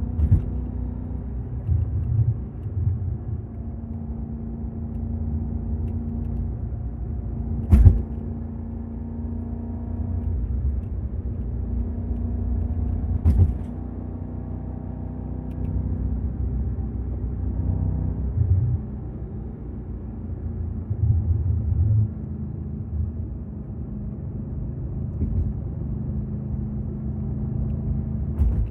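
2006 Audi S4 Avant's 4.2-litre V8 running with a steady low hum and rumble that swells now and then. Two sharp thumps cut through it, about a third of the way in and again about halfway.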